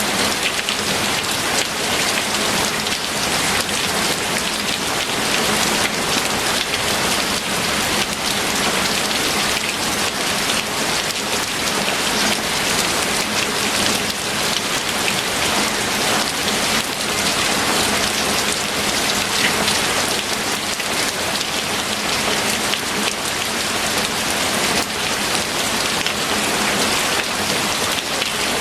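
Steady rain falling, with many individual drop hits sounding on a surface. It keeps an even level throughout.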